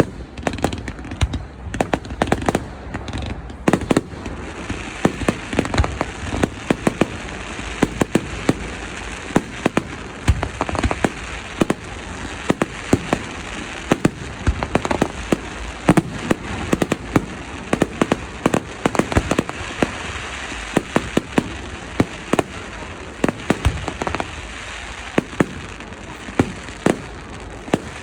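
Fireworks display: a rapid, irregular barrage of sharp bangs from bursting shells, several a second, over a steady hiss that grows stronger about four seconds in.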